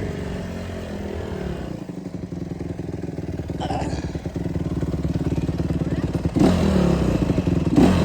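Dirt bike engine running steadily with even firing pulses, getting louder about six seconds in.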